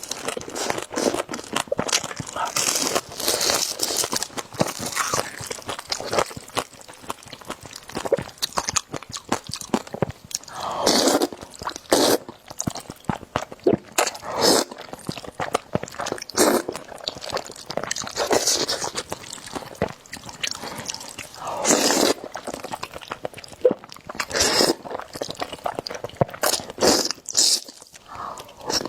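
Close-miked eating sounds: irregular biting, crunching and chewing with wet clicks of the mouth, with a few louder bursts now and then.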